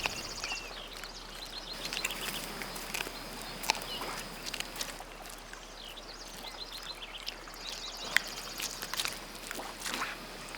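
Outdoor natural ambience: a high, rapid bird trill near the end, a few short high chirps near the start, and scattered sharp clicks over a faint steady hiss.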